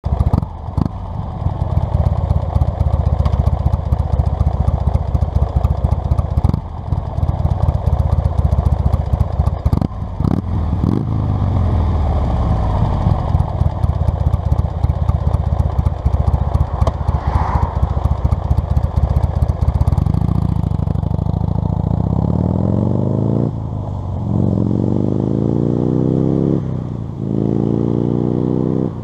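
Buell XB9's 984 cc V-twin engine running with a rapid, uneven pulse, then accelerating from about twenty seconds in. Its pitch climbs steadily and drops back sharply at two gear changes.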